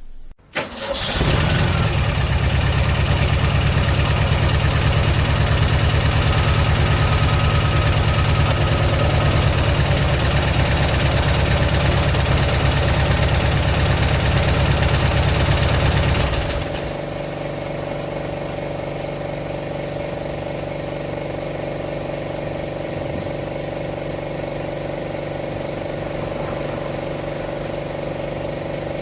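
APOLLOTECH oil-less air compressor switching on with a click and starting up about a second in, its motor and piston running loud and steady with a low pulsing. About 16 seconds in, the sound drops to a quieter, steady hum.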